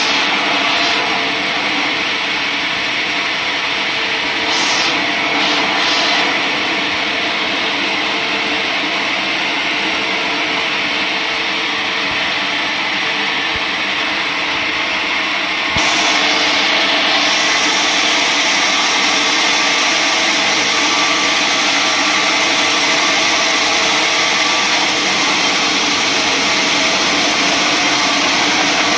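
Sawmill saw running and cutting through mahogany wood: a loud, steady machine noise that turns louder and harsher about halfway through.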